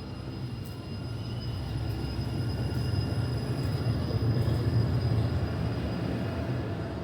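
TTC Line 6 Finch West light rail train running along the platform: a low rumble that swells to its loudest about four to five seconds in and then eases off, with a steady high whine above it.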